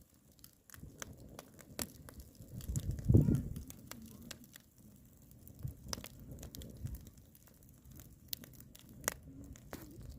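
Wood fire crackling with sharp pops and snaps, and a louder low rumble about three seconds in.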